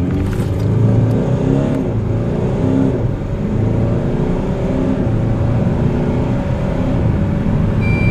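Alfa Romeo Stelvio's 2.2-litre four-cylinder turbodiesel at full throttle from a standstill, heard from inside the cabin. The engine pulls hard, rising in pitch through each gear of the eight-speed automatic and dropping back at the upshifts. A steady electronic beep starts near the end.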